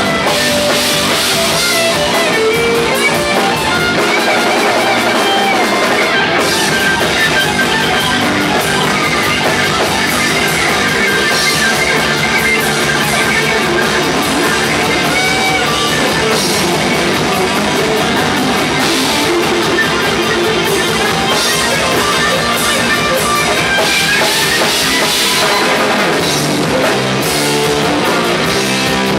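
Live rock band playing an instrumental passage: guitar over a drum kit, loud and steady throughout.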